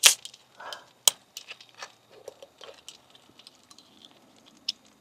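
A sharp click, then another about a second later, followed by scattered light taps and crinkling as small objects are handled.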